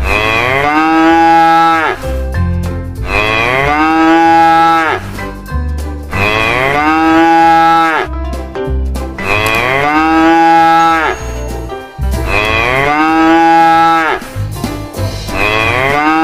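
Cow mooing: six long calls about three seconds apart, each dropping in pitch at the start and then held steady.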